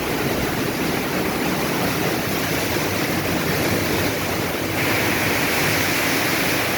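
Heavy rain pouring down, a dense steady hiss that is very loud ("keras sekali"). About five seconds in it turns brighter and hissier.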